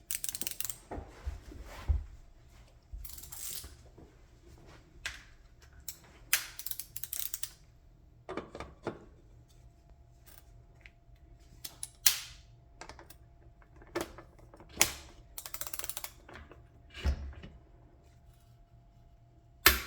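Torque wrench tightening Shimano Hollowtech external bottom bracket cups into a bicycle frame's shell: irregular ratchet clicks and short rattling runs, with the odd knock of metal tools between them.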